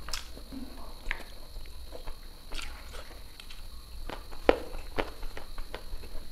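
Close-miked eating sounds: a person chewing with the mouth closed, giving a scatter of short wet clicks and smacks at uneven intervals, the loudest about four and a half seconds in.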